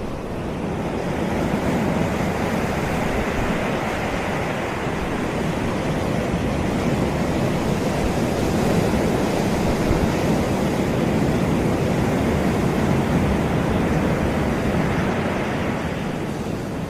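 Ocean waves breaking and washing onto a sandy beach, a steady rushing surf that swells about a second in and eases off near the end, with some wind on the microphone.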